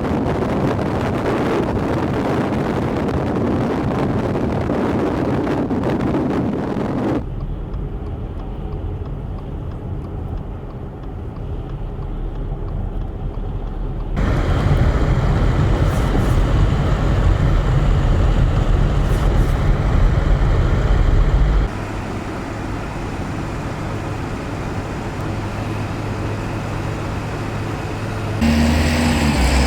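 Heavy vehicle engines running, from snow plows and a front loader clearing snow, heard across several short clips that change abruptly. The first clip is mostly wind noise on the microphone.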